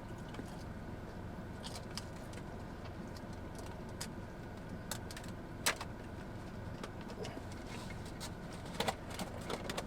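Quiet, steady low hum with a few faint, sharp clicks and taps, one a little louder just before the middle.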